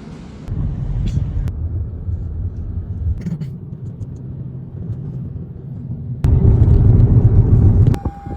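Low rumble of a car on the move, road and wind noise, with abrupt jumps in level; it is loudest for about two seconds near the end.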